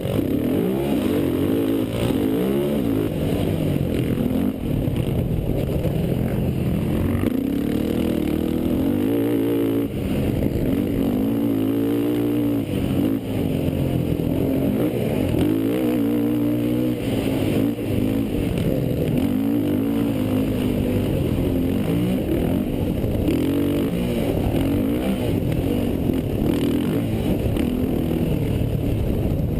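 Racing quad engines revving up and down continuously as they run the motocross track, their pitch rising and falling over and over, with more than one engine heard at once.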